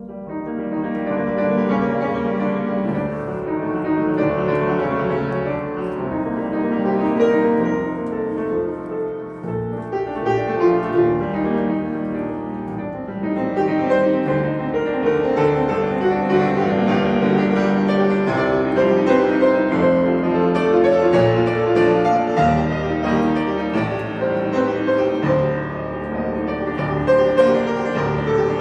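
Piano music: a melodic instrumental piece of held notes and chords.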